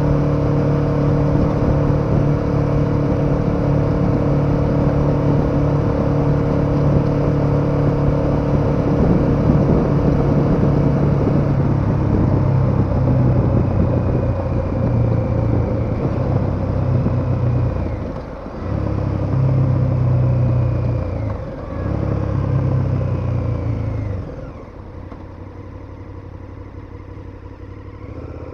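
KTM 1290 Super Adventure's V-twin engine running at a steady throttle, then changing note about halfway through, with two brief drops in sound. Near the end it falls back to quieter, lower running.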